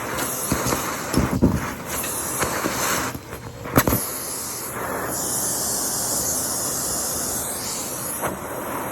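Henry canister vacuum cleaner running and sucking up debris, with a few sharp knocks; about five seconds in the hiss turns brighter for about three seconds.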